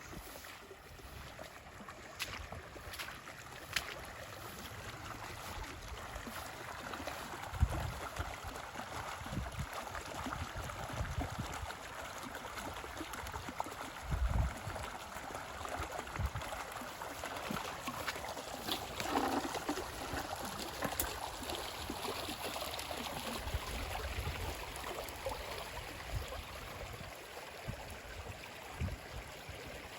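Overflow water from a rain-swollen pond running steadily down a drainage ditch, with a few brief low thumps.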